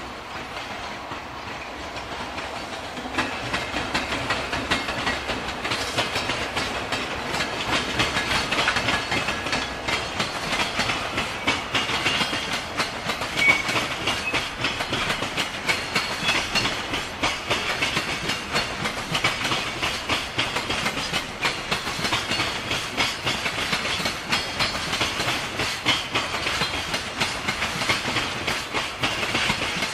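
JR Freight EF210 electric locomotive and its container wagons passing, the wheels clattering steadily over rail joints. The sound swells over the first few seconds as the locomotive comes near.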